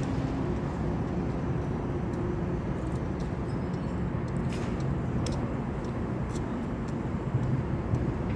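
Steady low rumbling background noise with a faint hum running under it, like an outdoor field recording.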